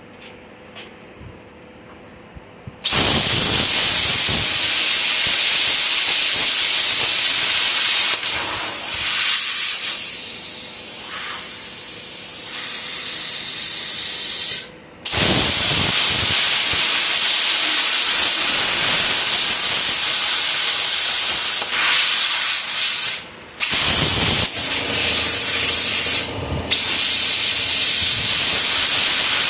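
A loud, steady hiss of a spray or blasting tool working on metal, starting about three seconds in, easing for a few seconds in the middle and cutting out briefly twice.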